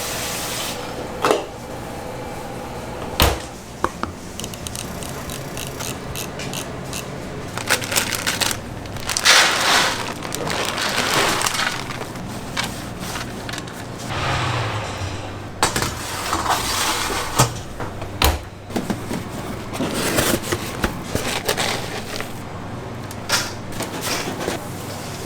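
Kitchen food-prep sounds: scattered knocks, clicks and clatter, with several short bursts of hiss over a steady low hum.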